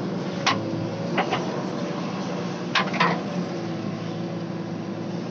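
Backhoe loader's diesel engine running steadily. Sharp metallic clanks from the machine's working gear come through over it, about five in the first three seconds.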